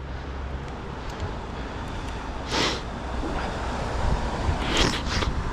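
Wind buffeting the microphone of a moving bicycle rider, a steady low rumble with two brief louder rushes, about two and a half and five seconds in.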